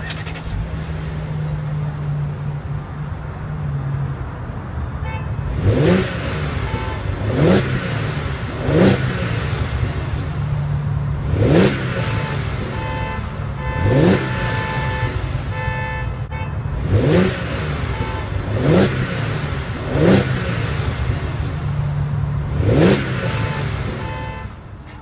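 2015 Audi Q7's 3.0-litre supercharged V6 idling steadily, then revved about nine times in short sharp blips, each rising quickly and falling back to idle.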